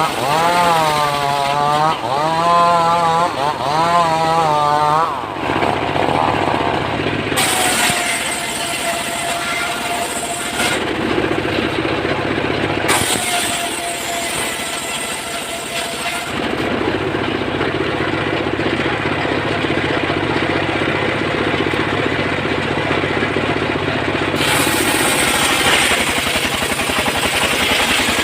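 Engine-driven wood saw running. For the first few seconds the engine revs up and down about once a second, then it runs at a steady pitch, with sudden changes in the sound several times.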